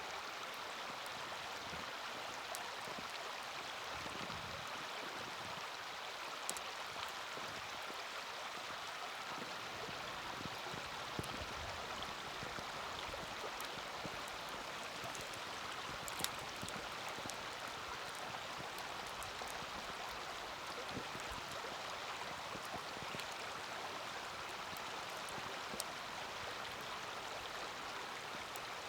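Small campfire burning in a mini fire stand, giving a few sharp pops and crackles over a steady rushing hiss.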